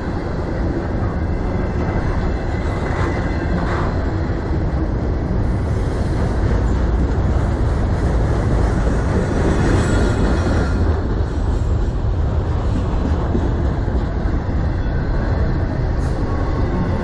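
Freight train of autorack cars rolling past at close range: the steady, loud noise of steel wheels running on the rails, with no let-up.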